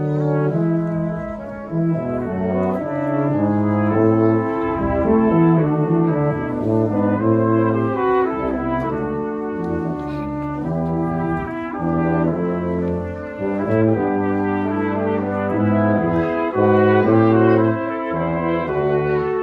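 Brass quartet playing: trumpets, horn and trombone sustain moving chords together, with a bass line in the low brass.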